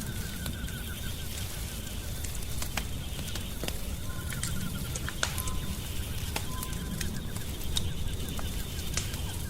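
A wood fire crackling, with scattered sharp pops over a steady low rumble. Layered with it are short runs of rapid, high chirping and a couple of brief whistled notes.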